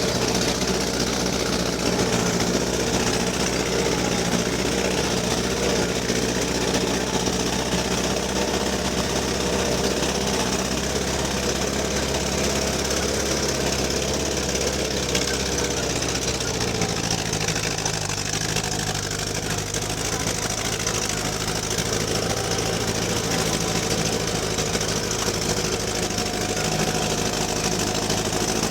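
GAZ-69A's four-cylinder side-valve engine running steadily as the vehicle drives. Its note changes about seventeen seconds in.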